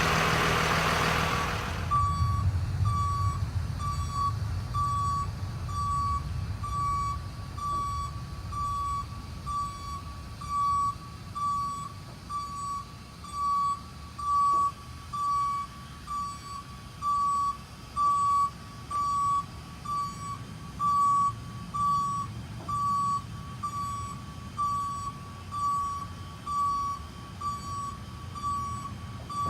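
1999 Global wide-body catering truck's warning alarm beeping steadily, about once a second, with its engine running underneath. A loud rushing noise stops suddenly about two seconds in.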